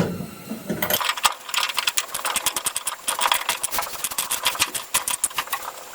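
Hand ratchet wrench clicking rapidly as a 5/16 bolt is run out, starting about a second in and going on as a fast, even run of sharp clicks, roughly ten a second.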